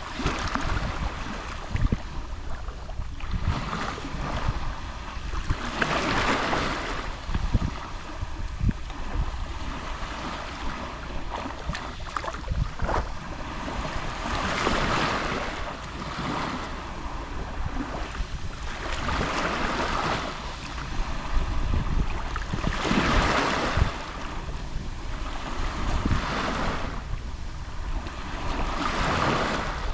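Gentle sea waves lapping on the shore, a wash of surf swelling and fading every few seconds.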